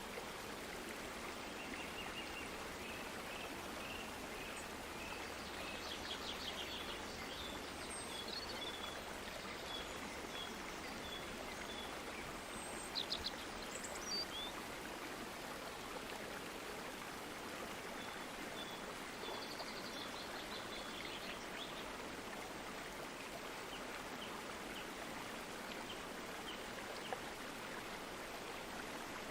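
Steady rush of a flowing stream, with birds calling in runs of short repeated notes, a few louder sharp chirps midway.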